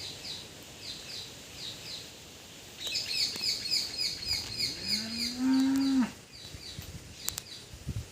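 A cow moos once about five seconds in, one low call that rises and then holds for about a second and a half. Small birds chirp over and over throughout, thickest in the middle.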